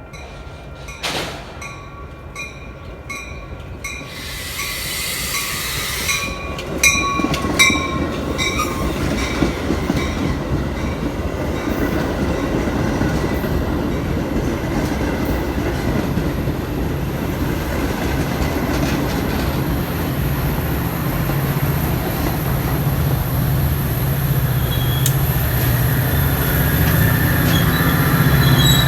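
Metra commuter train approaching, its rail noise growing steadily louder, with clicks from the wheels over the rail joints and a high steady wheel squeal. Repeated bell-like dings sound in the first few seconds, and a low diesel locomotive hum builds near the end.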